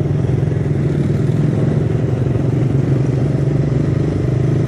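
Suzuki Satria F150 carburettor model's single-cylinder engine running steadily under way, a constant hum with no change in pitch.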